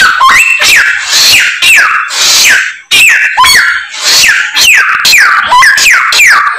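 Chinese hwamei (samyong) singing loudly: a rapid string of clear whistled notes, each sliding down in pitch, about two or three a second.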